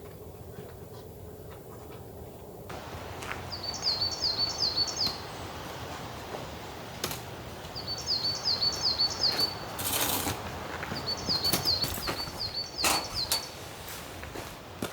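A songbird singing three short runs of quick, repeated high chirps. Under it runs a steady hiss, likely rain, with a few brief louder noises near the middle and end.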